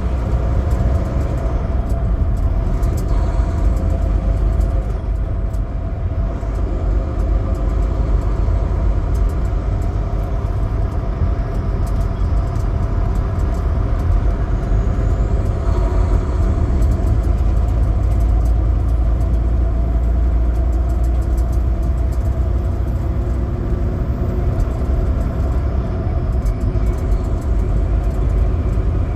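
Semi truck's diesel engine running steadily at road speed, a constant low rumble with road and tyre noise and occasional faint ticks.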